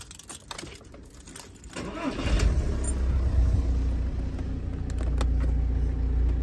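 Keys jangling as the ignition key of an Audi convertible goes in, then the engine cranks and starts about two seconds in and settles into a steady idle.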